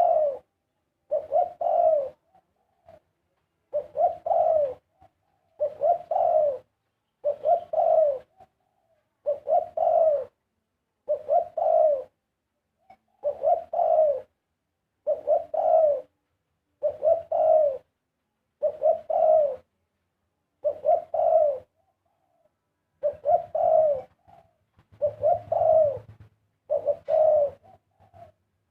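Spotted dove cooing. It repeats the same short phrase of low coos steadily, about once every one and a half to two seconds.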